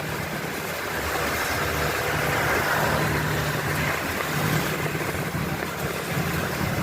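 A vehicle engine running steadily with a low hum, over a constant dense hiss of heavy rain.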